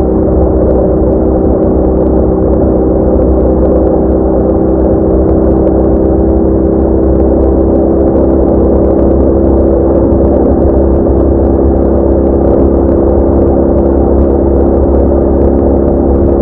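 BMW R1200R boxer-twin engine drone as the motorcycle cruises at a steady speed, with an even low rumble under it.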